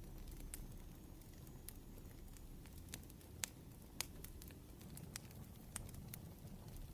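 Wood fire crackling: irregular sharp pops and snaps, a couple of them louder around the middle, over a low steady rumble.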